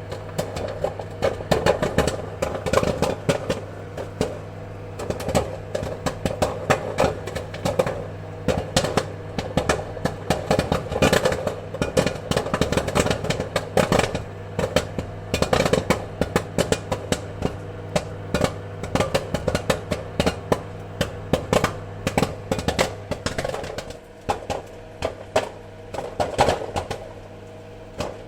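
Popcorn kernels popping in quick, irregular succession over a steady low hum. The popping thins out a little near the end.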